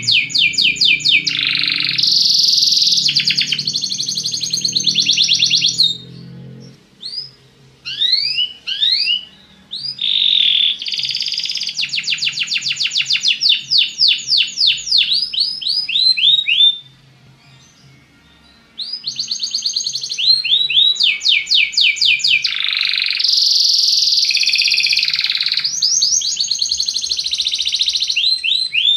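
Domestic canary singing: fast rolling trills and quick rising chirps in phrases several seconds long, broken by two short pauses.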